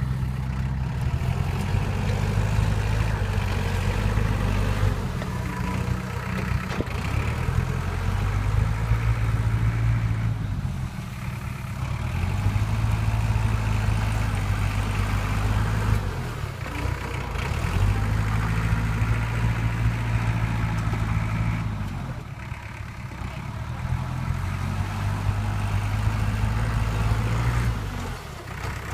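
Heavy diesel engine of an earthmoving machine or dump truck running, its note dropping and then picking back up about every five to six seconds.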